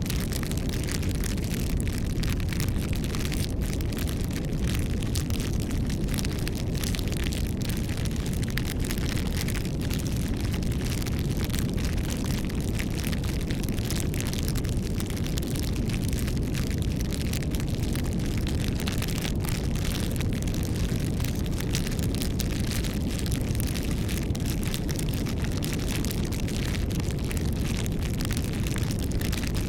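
Campfire burning with a steady low rush of flames and frequent sharp crackles and pops from the burning wood.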